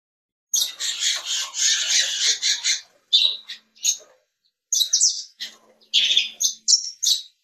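Caged canaries chirping and twittering, a busy run of high calls starting about half a second in, then shorter bursts of chirps.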